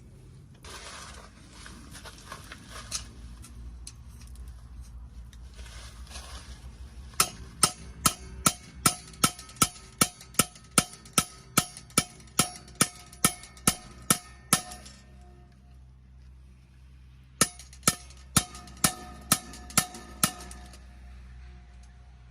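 Repeated sharp metallic strikes at about two a second, each with a short ringing tone: a run of about seventeen, a pause of a few seconds, then seven more. Rustling comes before them.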